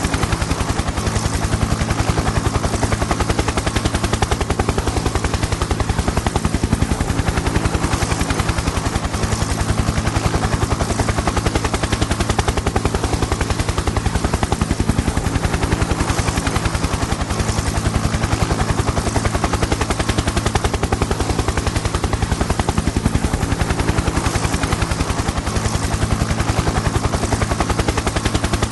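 Helicopter in flight: rapid, steady rotor-blade chop over a constant turbine and engine drone, continuous and unchanging.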